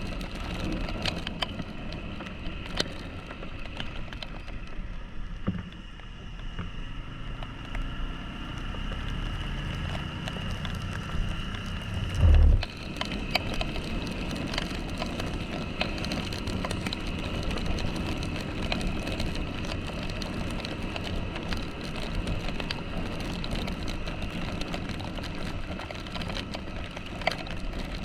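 Yamaha XTZ 150 Crosser S motorcycle's single-cylinder engine running steadily, with scattered light ticks and one loud low thump about twelve seconds in.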